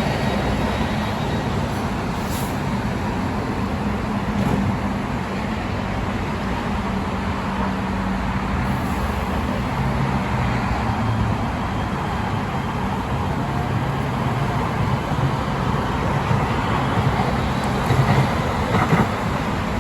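LA Metro light rail train running: a steady rumble of wheels on track with a low electric motor hum, and a few louder knocks near the end.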